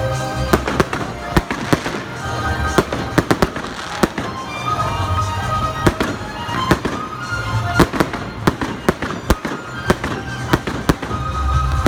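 Fireworks display: a rapid, irregular series of sharp bangs and crackles, several a second, over music with a pulsing bass.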